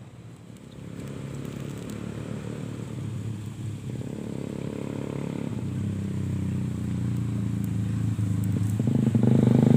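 A motor vehicle's engine running steadily and growing gradually louder as it draws closer, loudest near the end.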